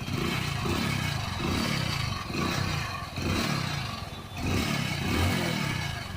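Hero Passion Pro motorcycle's single-cylinder engine running with the throttle blipped, rising and falling about once a second, with a metallic rattle from the exhaust. The mechanic traces this rattle to the silencer's internal mesh, whose welding has broken loose.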